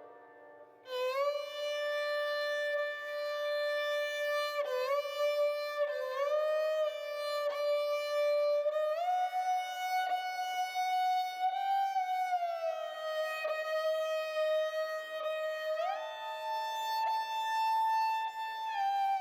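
Slow instrumental background music: a single bowed-string melody of long held notes joined by smooth slides between them, starting after a brief pause about a second in.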